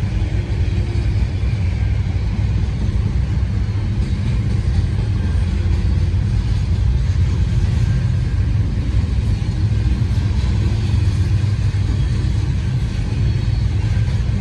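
Slow-moving intermodal freight train rolling past: a steady low rumble.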